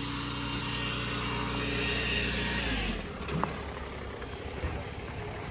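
A motor vehicle engine runs steadily close by with a rising hiss. About three seconds in, the engine sound cuts off abruptly.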